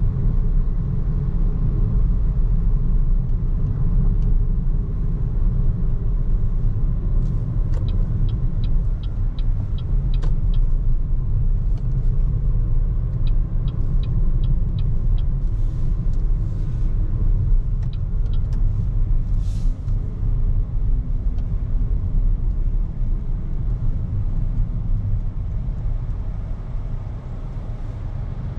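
Road and tyre rumble of a BYD Seagull electric hatchback driving steadily, with no engine note since it is battery-electric. There are two brief runs of quick light ticks, about three a second, a third of the way through and again near the middle.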